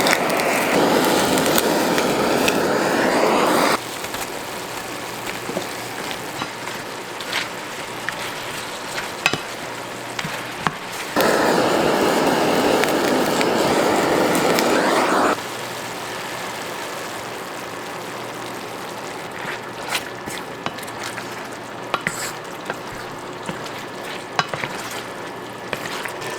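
Water running from a kitchen tap twice, each time for about four seconds, with a faint pitch rising as a container fills. Light clinks of kitchen utensils come in between.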